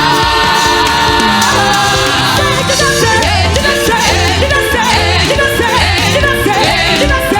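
Live gospel praise music from a church choir and band: a voice holds one long note for the first second and a half, then the singing moves in short runs over a steady bass beat.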